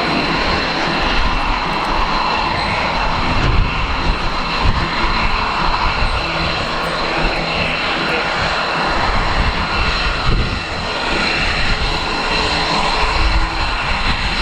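Aircraft engines running steadily at close range: a dense rumble with a steady high whine on top.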